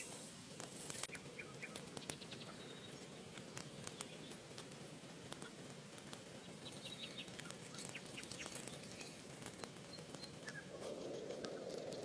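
Outdoor nature ambience: a few short bird chirps over a faint, steady hiss with scattered light clicks. A louder low rushing noise comes in near the end.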